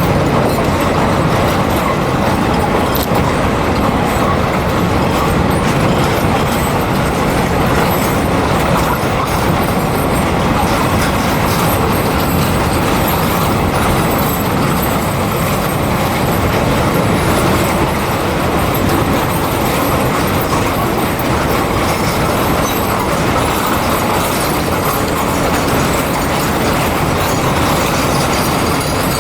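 Phosphate freight train rolling past, hauled by an Alstom 'Nez Cassé' electric locomotive: a loud, steady rumble of wagons and wheels on the rails.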